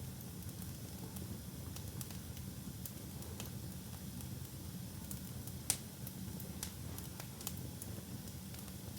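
Wood fire burning in a fireplace: scattered crackles and pops over a low, steady rumble of the flames, with one sharper, louder pop a little past halfway.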